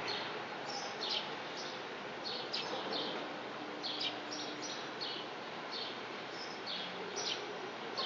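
Small songbirds chirping repeatedly, short high downward-sweeping calls several times a second, over a steady background hiss.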